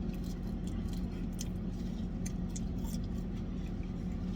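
A person chewing fried food, with small wet mouth clicks scattered through, over a steady low hum.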